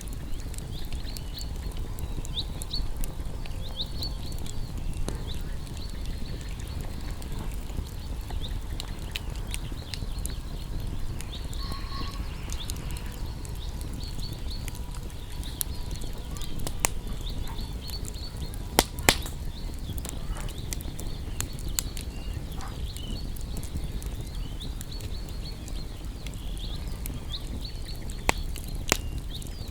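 Wood campfire burning: a steady low rush of flames with constant small crackles, and a few sharp pops, two close together past the middle and two more near the end. Short high chirps run faintly over it.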